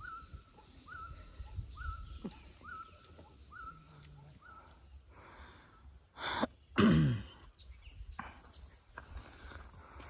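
A bird repeats a short chirp about six times, roughly one and a half a second, then stops about four and a half seconds in. About six seconds in a person lets out a sudden loud vocal burst of breath, falling in pitch, the loudest sound.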